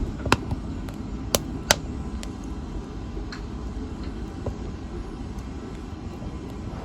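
Wood fire crackling in a fireplace: a steady low rumble of burning with a few sharp pops, the loudest three in the first two seconds and fainter ticks after.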